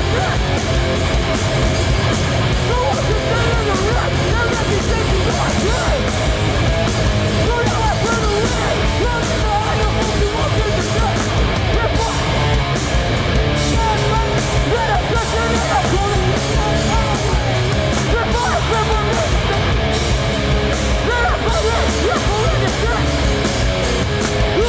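Hardcore punk band playing live at full volume, with heavy distorted guitars and drums.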